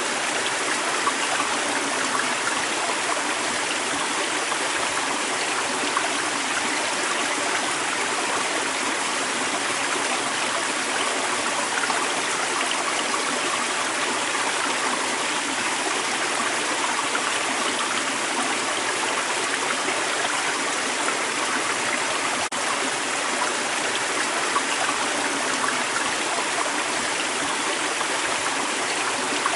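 A creek's running water, a steady rushing and burbling that holds at the same level throughout.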